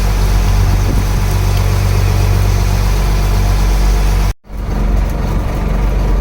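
A wooden fishing boat's inboard engine running steadily with a low, even hum. About four seconds in, the sound cuts out for a moment and then resumes.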